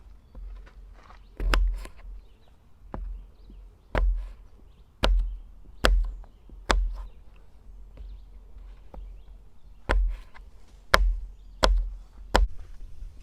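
A knife chopping on a cutting board: about ten single sharp chops with a dull thud, roughly one a second, pausing for a few seconds midway.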